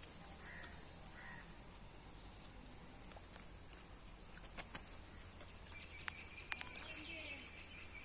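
Faint outdoor background with a few short bird chirps about half a second to a second in and more chirping in the last couple of seconds. A handful of sharp clicks come around the middle.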